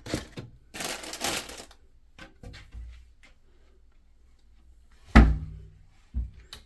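Handling noises in a kitchen cabinet: a short rustle and light clicks early on, then a sharp thud about five seconds in and another knock near the end, like cabinet doors being shut.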